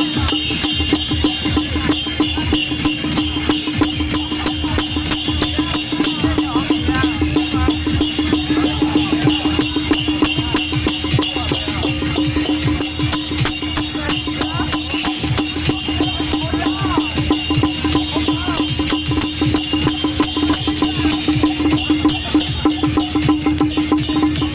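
Procession percussion music: drums, cymbals and clappers struck rapidly and without pause, over a steady held tone.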